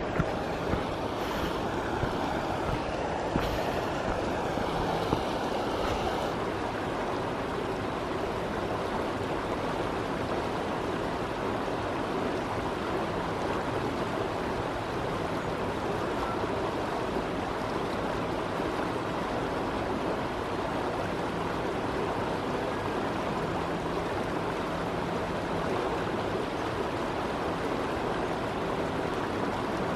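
Running stream water flowing with a steady, even rush.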